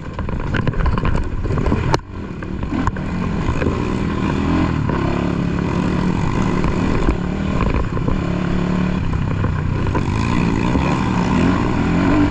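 Dirt bike engine running under throttle, its pitch wavering as the rider works it, with a few sharp knocks in the first three seconds.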